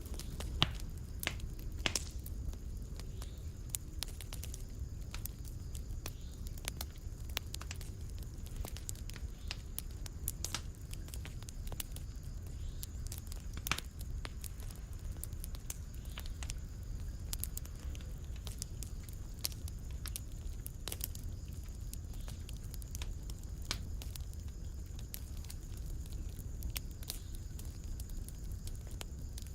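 Fireplace fire crackling, with many sharp, irregular pops over a low steady rumble; the loudest pops come near the start and about halfway through.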